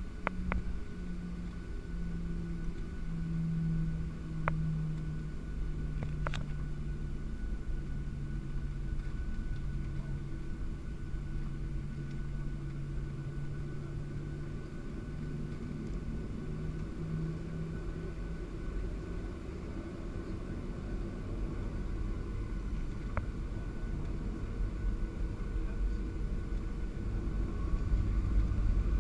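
Boeing 737-700's CFM56 jet engines and airframe, heard on board as a steady low rumble with a few steady low engine tones and occasional small clicks. Near the end a whine rises in pitch and the sound grows louder.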